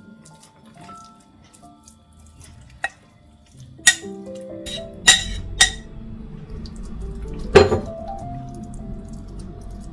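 Soft background music with five sharp clinks of dishes and glassware handled in a kitchen. The loudest clink comes about three quarters of the way in, and a low, even rumble sets in about halfway.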